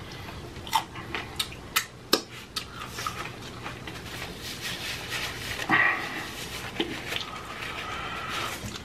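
A hard, crunchy taco shell being bitten and chewed close to the microphone, with a run of sharp crunches in the first few seconds. The chewing then goes on more softly, with a louder rustle or breath about six seconds in.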